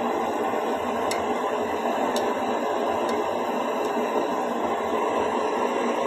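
Steady hiss and bubbling of pots of meat boiling on a stove, with a few faint ticks.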